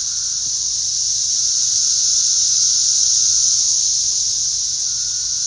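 Loud chorus of cicadas: a steady, high-pitched buzzing drone with no let-up, sounding like a flying saucer.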